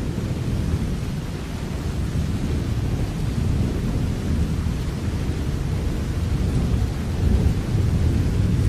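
Steady rainfall with a continuous deep rumble beneath it, swelling slightly near the end.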